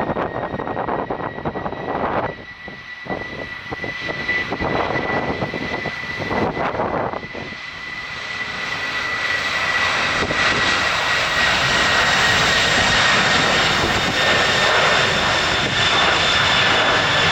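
Jet engines of a Boeing 747-400 freighter running with a steady high whine over a rushing noise. About halfway through, the noise swells and then stays loud.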